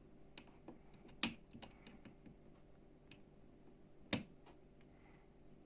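Small plastic Lego pieces clicking and tapping as they are handled and pressed together, with two sharper clicks, about a second in and about four seconds in.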